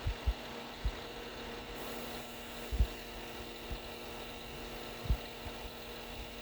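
Steady hum of the Scania 480 truck's engine idling, with a few dull low thumps at irregular intervals.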